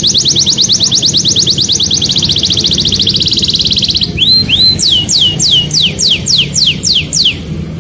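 Canary singing: a fast trill of repeated notes, about a dozen a second, for the first half, then a slower run of high notes sweeping downward, stopping shortly before the end.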